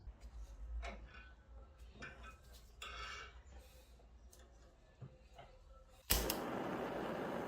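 Small clicks and light handling noises, a few scattered snips or taps. About six seconds in, a steady rushing noise starts abruptly and is much louder.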